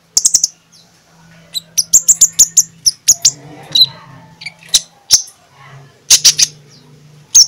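Wild sunbird singing: sharp, high chirps given in quick clusters of a few notes, with short pauses between the clusters.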